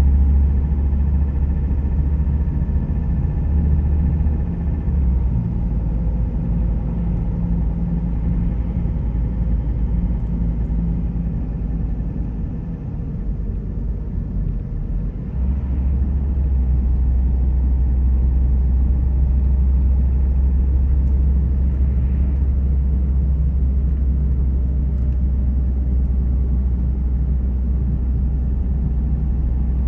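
Car on the move: steady low rumble of engine and road noise. The deep rumble eases off about five seconds in and comes back strongly about fifteen seconds in.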